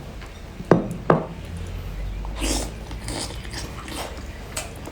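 Close-miked eating of big sea snail meat: biting and chewing, with two sharp clicks about a second in, then scattered small crunches and smacks.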